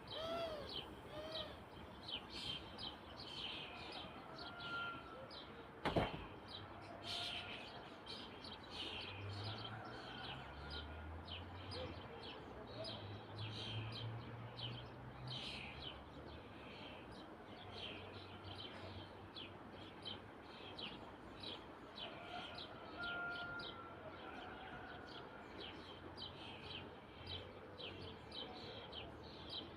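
Small birds chirping, many short high chirps repeating throughout, with a single sharp click about six seconds in and a faint low rumble in the middle.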